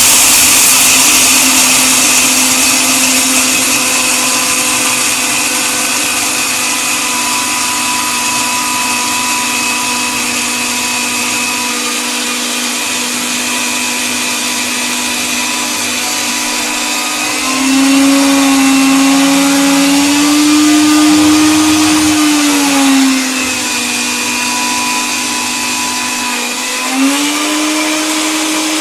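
Electric coffee grinder motor running continuously with a steady whine over a hiss. Its pitch rises slightly about two-thirds of the way through, wavers, drops back, and rises again near the end.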